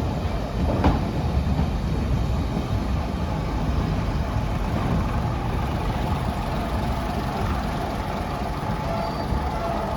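British Rail Class 105 diesel multiple unit's underfloor diesel engines running steadily as the train moves, with a single sharp knock about a second in.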